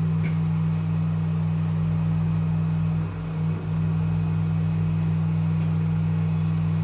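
Steady low hum of a motor or electrical appliance with a faint hiss over it, dipping briefly about three seconds in.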